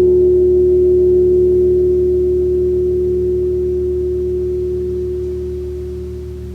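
A gong's long ringing tail dying away with no new strike: one steady humming tone, its higher overtones fading out within the first couple of seconds, the whole sound slowly getting quieter.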